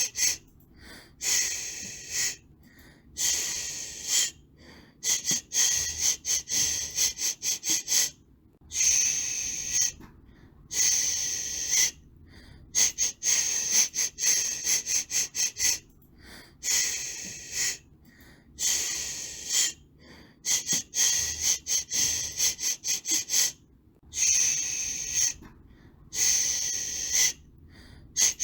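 Looped white noise for soothing a baby: a high hiss in bursts of one to three seconds with short gaps between them, the pattern repeating about every eight seconds.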